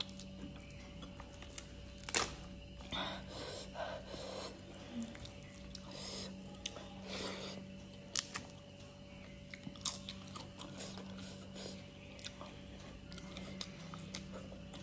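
Close-miked eating sounds: wet chewing and crunching of rice and nettle curry eaten by hand, with sharp clicks and short crunchy bursts scattered through, the loudest about two seconds in. A faint steady hum runs underneath.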